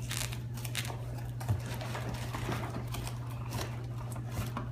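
Paper and toy packaging crinkling and rustling as hands dig inside a giant paper egg, a busy run of small irregular crackles and clicks.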